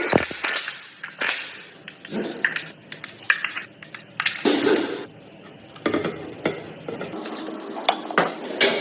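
Irregular metal clinks, taps and scrapes of tools and engine parts being handled during hand assembly of an engine, with a few short hisses.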